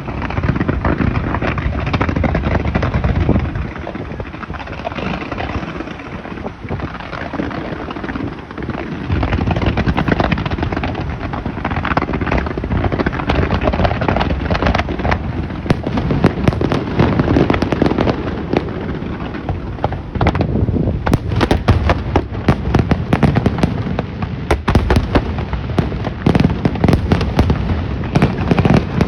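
Fireworks display: continuous booms and rumbling, with many sharp crackles that grow denser about two-thirds of the way through.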